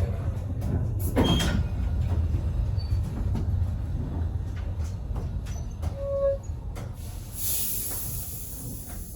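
Vintage steam train carriage running on the rails: a steady low rumble with scattered clicks and knocks, most of them just over a second in, and a short squeal about six seconds in. A hiss starts about seven and a half seconds in and lasts a second and a half, while the rumble slowly fades.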